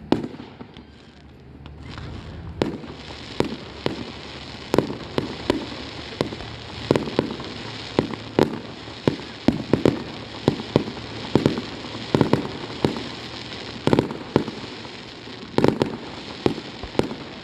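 Fireworks display: after a quieter first two seconds, a dense, irregular run of aerial shell bursts, several bangs a second, with crackling between them.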